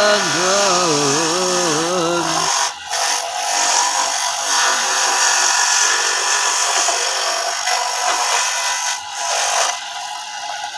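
Electric coconut grating machine rasping through coconut flesh: a loud, harsh grinding noise that starts about two and a half seconds in, dips briefly near nine seconds and eases to a quieter run near the end. A wavering pitched tone comes before it.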